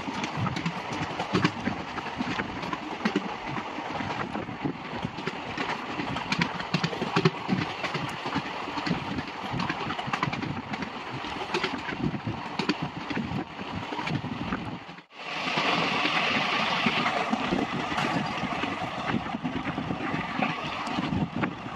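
Passenger express train running at speed, heard from an open coach window: a steady rumble with quick clicks and clatter of the wheels on the rails, mixed with wind on the microphone. The sound cuts out for an instant about fifteen seconds in, then carries on with more hiss.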